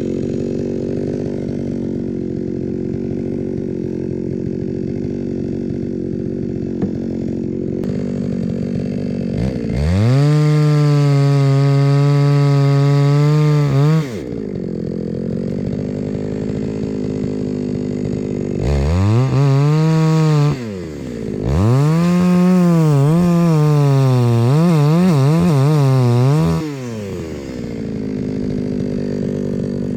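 Two-stroke chainsaw idling, then revved to full speed for about four seconds, dropping back to idle, and revved again twice in the second half. In the last long run the pitch sags and wavers as the chain bites into the log being cut for firewood, before the saw falls back to idle.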